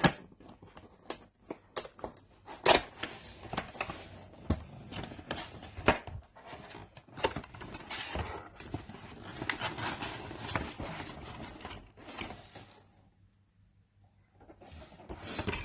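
A cardboard box and its packaging being opened and handled: an irregular run of clicks, scrapes and rustles with a few sharper knocks, falling quiet briefly near the end.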